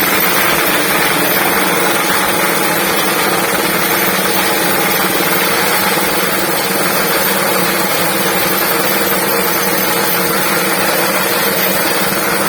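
Three-arm induction furnace lining vibrator running: a loud, steady mechanical buzz that holds unchanged throughout.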